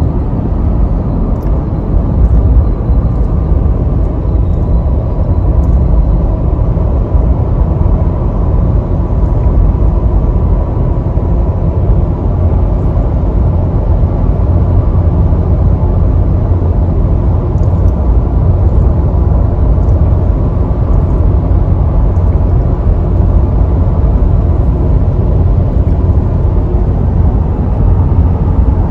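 Steady road and engine noise of a car being driven, heard from inside the cabin: a constant low rumble with no letup.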